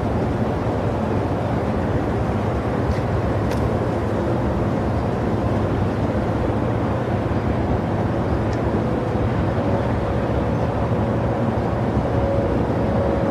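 Steady noise of an airliner's jet engines running at the airport, an even rumble with a low hum and, about two-thirds of the way in, a faint steady whine.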